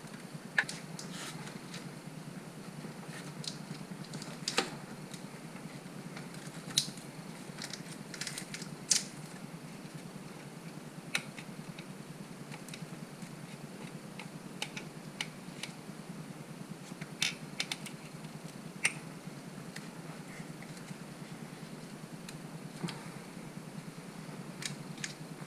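Scattered light clicks and taps of plastic engine-bay pieces and clips being handled and fitted back into place, irregularly spaced, over a steady low hum.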